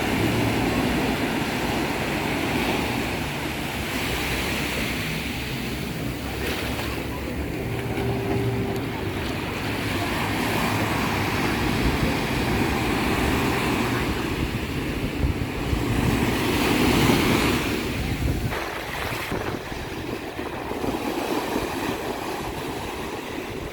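Ocean surf washing in, with wind buffeting the microphone. The sound swells and eases, loudest about two-thirds of the way through.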